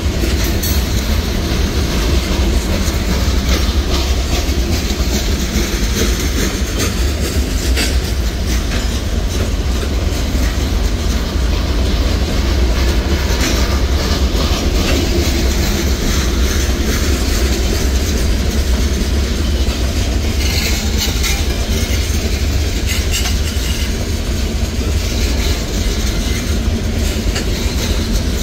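Freight cars of a Norfolk Southern manifest train, open-top hoppers and then a boxcar, rolling past. A steady, loud rumble of steel wheels on rail, with occasional clacks.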